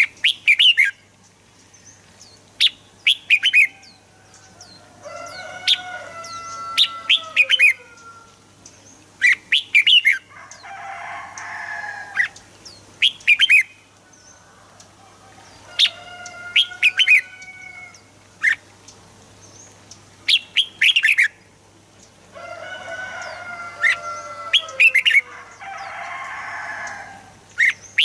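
Red-whiskered bulbul song: clusters of sharp, high chirps mixed with lower warbled phrases and a couple of harsh, rasping notes, the sequence repeating about every ten seconds.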